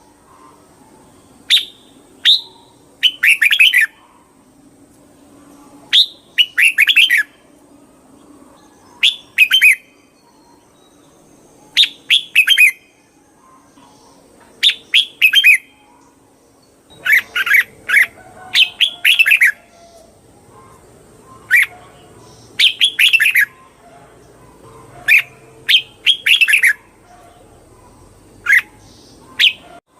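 Red-whiskered bulbul singing: short, bright chirping phrases of a few quick notes, repeated every two to three seconds.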